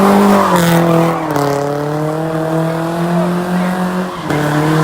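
A car engine held at high revs with its tyres spinning and squealing, as in a burnout or donut. The engine note steps down slightly about a second in and dips briefly near the end.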